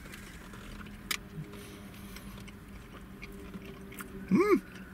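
A man chewing a mouthful of soft bread roll filled with mashed potato and gravy, with a sharp click about a second in. Near the end he gives a short hummed "mmm" that rises and falls in pitch.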